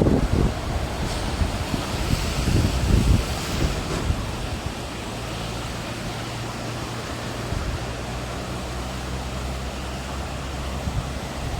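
Strong wind buffeting the phone's microphone over the wash of rough sea surf, gusting hardest in the first few seconds, then steadier.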